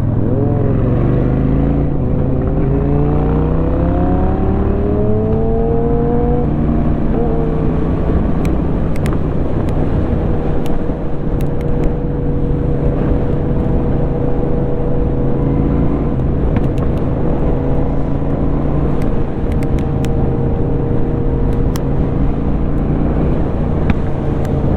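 Honda Shadow 750's V-twin engine heard from the rider's seat. It pulls up through a gear with rising revs for the first several seconds, shifts up around seven seconds in, then runs steadily at cruising speed.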